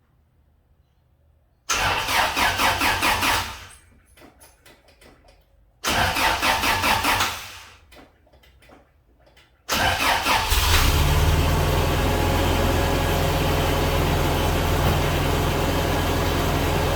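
Toyota Hilux's 3Y four-cylinder petrol engine cranked on the starter twice without catching, then catching on a third try about ten seconds in and settling into a steady idle. A cold start on a freshly rebuilt carburettor.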